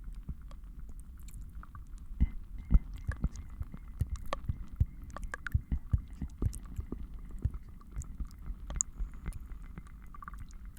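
Layered ASMR trigger sounds: irregular soft taps and clicks over a steady low rumble, with a few louder taps about two to three seconds in.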